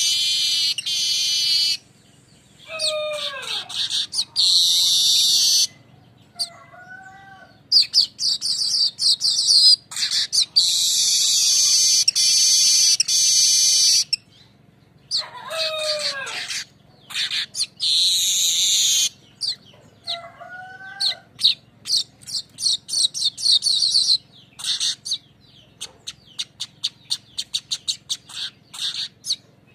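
Manyar weaver bird singing: long, dry, buzzing rolled trills, high in pitch, separated by short pauses. Twice a short falling call cuts in, and near the end the song breaks into a fast run of short ticking notes.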